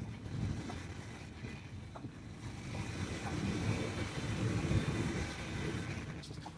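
Passenger train running: a low rumble with a rushing hiss that swells through the middle and eases off near the end.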